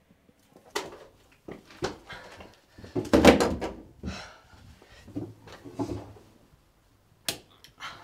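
A string of knocks, bumps and rustles from someone moving about and handling things at a cluttered wooden desk, the loudest cluster about three seconds in and a sharp knock near the end.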